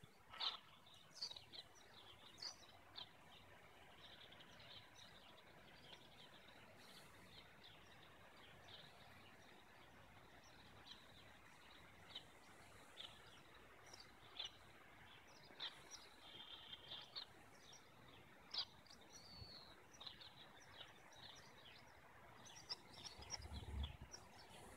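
Faint, scattered bird chirps over a quiet background hiss, with a brief low rumble near the end.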